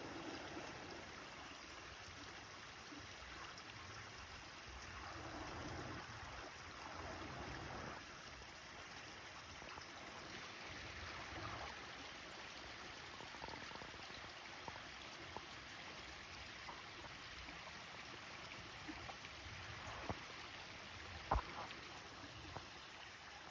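Steady outdoor rushing noise, wind or running water, that swells a few times, with scattered light clicks and one sharper snap about 21 seconds in.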